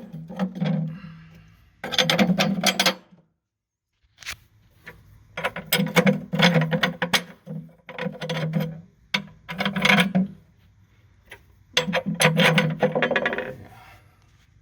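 A power tool worked on steel in short bursts, about six passes each lasting one to two seconds with pauses between them.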